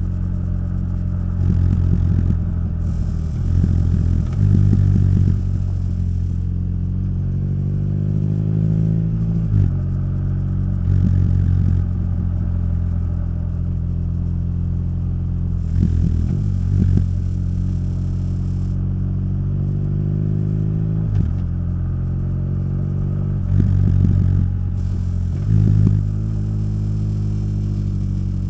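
Motorcycle engine and exhaust under way. The note climbs under throttle and drops back at each gear change several times, with steady cruising between and a few short louder bursts of throttle.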